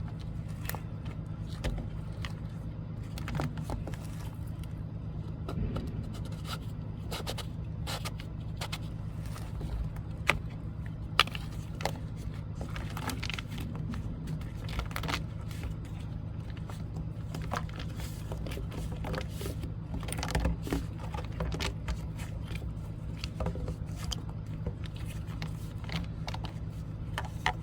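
Steady low motor hum, with scattered scrapes, clicks and knocks of sewer hose and fittings being handled; two sharper knocks come about ten and eleven seconds in.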